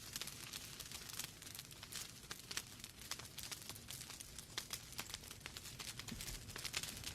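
Wood fire burning in a fireplace, logs crackling and popping irregularly over a low rumble of flame.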